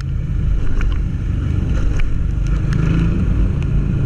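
Single-cylinder engine of a Honda CG 160 Titan motorcycle running under way, with wind rumbling on the microphone and scattered sharp ticks.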